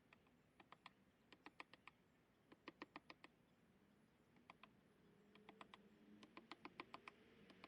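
Mallet tapping a carving chisel: sharp, light taps in quick bunches of three to six with short gaps between. A faint hum comes up near the end.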